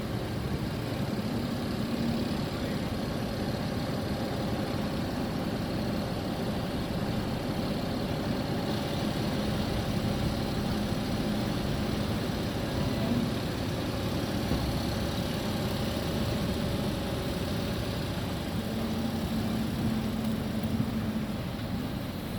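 Heavy lorry's diesel engine running steadily, a constant low drone with an even level throughout.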